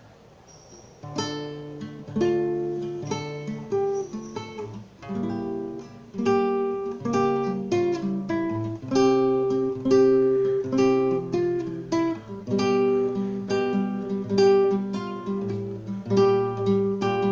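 Acoustic guitar strumming a chord progression at a steady rhythm, starting about a second in.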